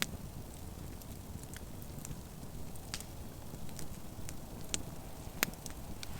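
Campfire crackling: scattered sharp pops and snaps over a steady low rumble, with one louder pop near the end.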